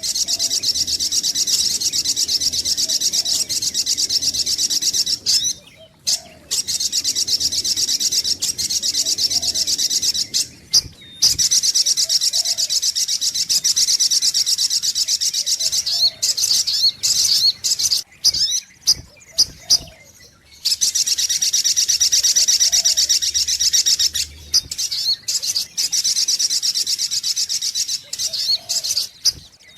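Little spiderhunter (sogok ontong) calling: loud, fast, high-pitched chattering trills in long runs of several seconds, broken by short pauses, with faint lower notes every second or two.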